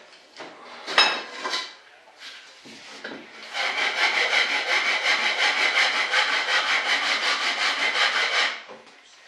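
Wood being worked by hand with rapid, even back-and-forth strokes, sanding or sawing, lasting about five seconds, after a couple of light knocks about a second in.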